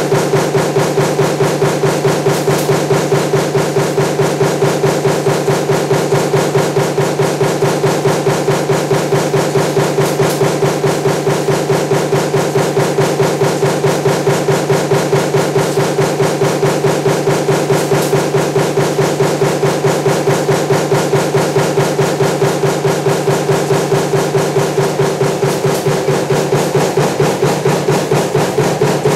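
Power press running continuously with a stamping die for table fan motor parts, striking in a fast, even rhythm over a steady machine hum.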